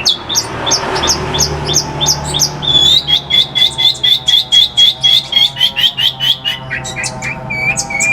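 Long-tailed shrike (pentet) singing a rapid string of sharp repeated notes, about five a second. It opens with rising chips, settles into a long run of even notes about three seconds in, and drops to lower, swooping notes near the end.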